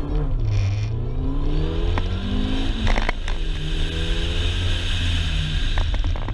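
2006 MINI Cooper S's supercharged four-cylinder engine accelerating hard, rising in pitch over the first three seconds. There is a break about three seconds in, then a steadier, slightly falling note, with a few clicks near the end.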